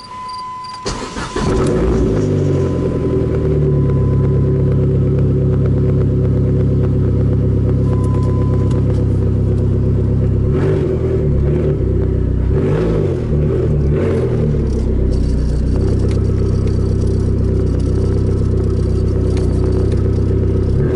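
Dodge SRT-4's turbocharged 2.4-litre four-cylinder cranks briefly, catches about a second and a half in, then runs steadily, with a few changes in engine speed around the middle. This is the first start after new exhaust manifold gaskets and studs, heard from inside the cabin.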